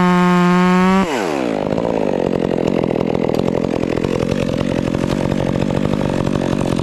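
Stihl MS 400 C two-stroke chainsaw running at full throttle. About a second in the throttle is released and the pitch falls quickly to idle, where the saw keeps running.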